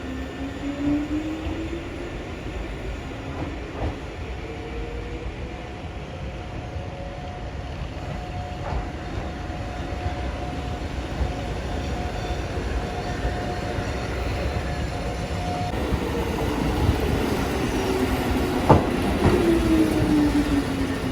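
Eizan Electric Railway train running on the rails: its motor whine rises in pitch as it speeds up, holds a steady tone, then falls in the last few seconds as it slows, with occasional clicks from the wheels on the rails.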